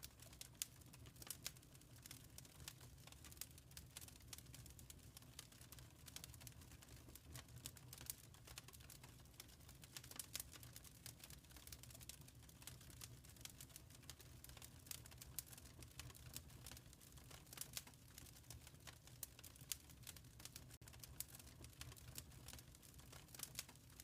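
Quiet wood fire crackling, with small irregular pops and snaps over a low steady rumble.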